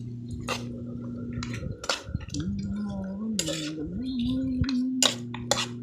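Metal cooking utensils clinking and knocking against a pot, a string of sharp clinks, over a steady low hum.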